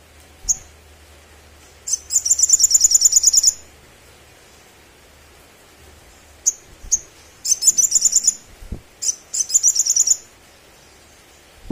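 Olive-backed sunbird singing: high, rapid chattering trills of quickly repeated notes, in two spells with a few single sharp notes in between.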